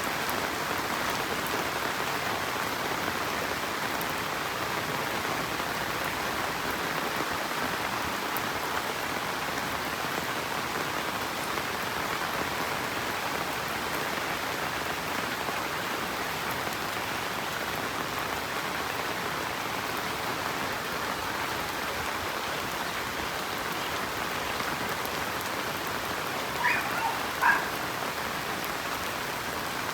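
Steady rain falling. Near the end a few short, pitched sounds rise briefly above it.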